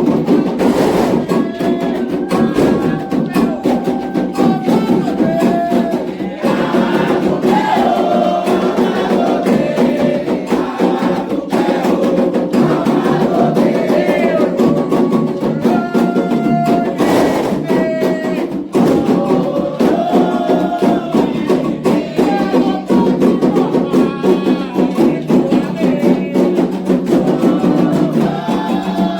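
Candomblé atabaque hand drums playing a fast, dense rhythm with a struck bell or wood keeping time, under group singing of an orixá chant: the rum played for Oxumaré.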